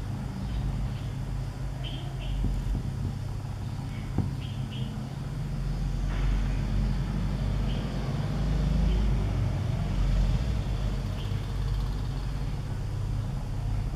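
Steady low rumble that swells between about six and ten seconds in, with short high bird chirps now and then, a few of them in quick pairs.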